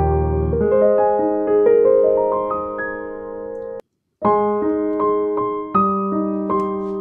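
Piano music playing a slow run of single held notes. It cuts out completely for about half a second near four seconds in, then carries on.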